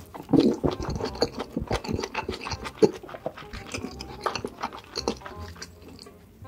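Close-miked mukbang eating: wet chewing and mouth smacking of a big mouthful, with many irregular clicks and one sharp smack a little before the middle.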